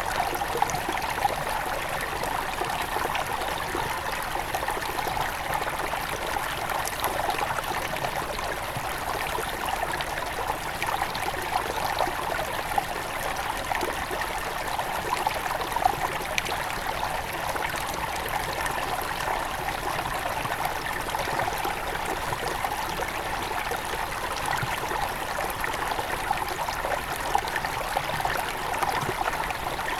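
Small headwater forest stream flowing over stones: a steady babbling rush of water with the odd brief louder splash.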